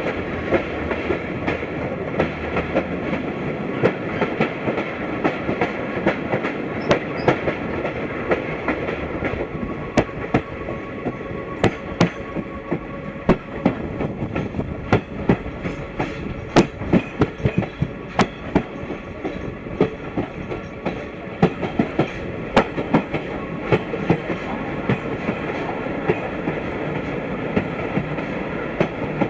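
Broad-gauge express passenger train running, with a steady rumble of wheels on rail and sharp clickety-clack of the wheels over rail joints, the clicks coming thicker in the second half.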